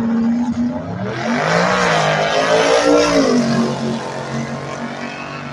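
Drag-race cars launching from the line and accelerating hard down the strip, engines revving up in pitch with a gear change partway through; loudest about three seconds in, then dropping in pitch and level as they pull away.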